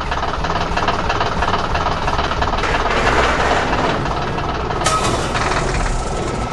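Heavy-machinery sound effects for an animated excavator setting to work: an engine running with a steady low rumble and mechanical clatter, with a brief sharper noise about five seconds in.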